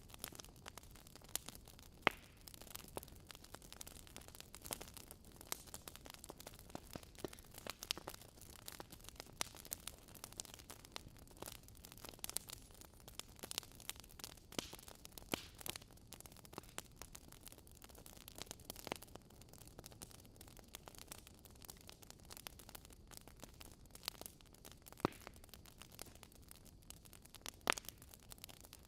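Wood fire crackling in a fireplace: frequent irregular snaps and pops over a soft hiss, with a few sharper pops standing out.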